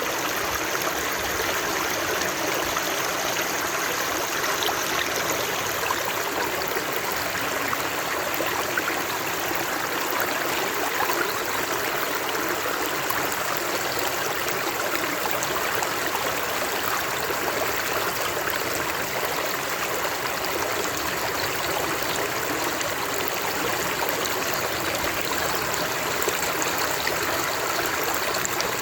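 Running water flowing steadily, an even, unchanging rush with a light babble, thin in the low end.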